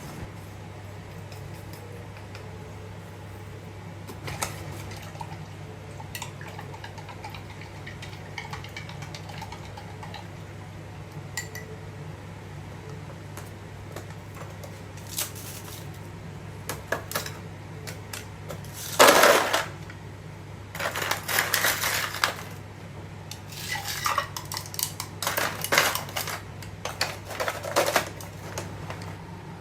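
Dishes, pots and cutlery clinking and clattering: scattered light clinks, one loud clatter about two-thirds of the way in, then a busier run of clattering near the end, over a steady low hum.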